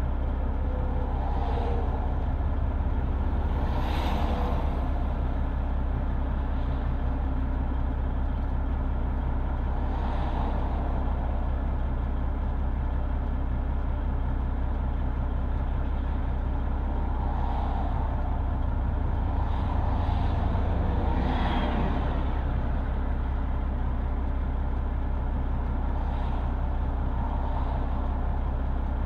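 Heavy truck's Detroit Diesel Series 60 engine idling steadily. A few passing vehicles swell up and fade over it, about four times.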